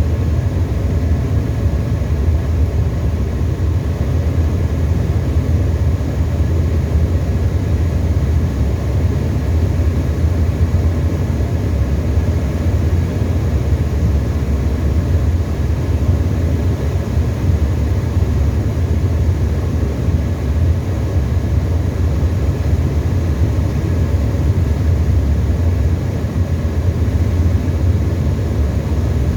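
Steady cabin noise of a Tecnam ultralight aeroplane in flight: the piston engine and propeller run at a constant setting as a loud, even low drone that does not change.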